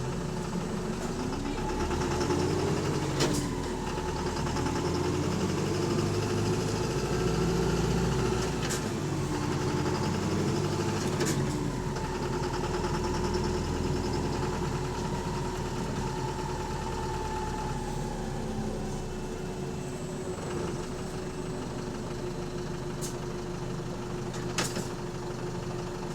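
Bus engine and drivetrain heard from on board: a steady hum with whines that rise and fall in pitch as the bus pulls away and slows, a low rumble that drops away about two-thirds of the way through, and a few sharp knocks and rattles. The engine has a knock that the uploader calls loud rod knocking.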